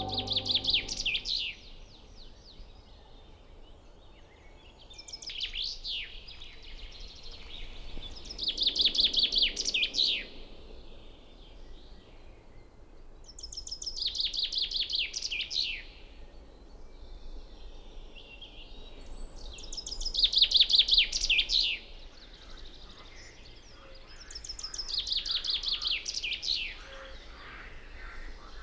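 A songbird singing short trilled phrases, each a quick run of high notes lasting one and a half to two seconds, repeated six times at intervals of about five seconds over faint background noise.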